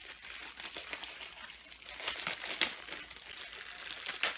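Crinkling and rustling of packaging being handled, with scattered sharper crackles, the loudest a little over two seconds in and near the end.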